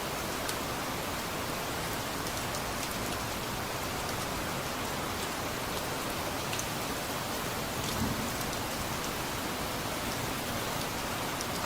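Steady rain falling, an even hiss with scattered sharper drip ticks. A brief soft low thump about eight seconds in.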